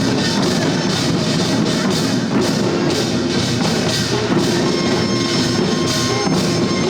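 Korean traditional percussion music for the Jindo drum dance, with buk drums played in a fast, even beat. A held note sounds over the drumming at times.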